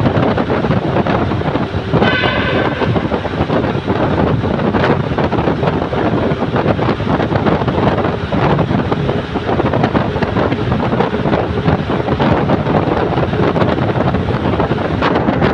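Wind buffeting the microphone over the steady rumble of a moving vehicle, with a brief high tone about two seconds in.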